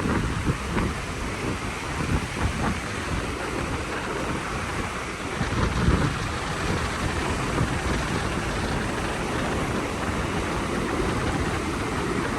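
Wind buffeting the microphone on a breezy beach: a continuous rushing noise with uneven low rumbling gusts.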